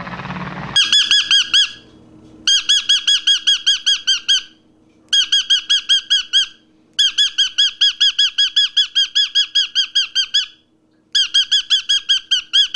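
An animal giving rapid trains of high, squeaky chirps, about eight a second, in five bouts separated by short pauses.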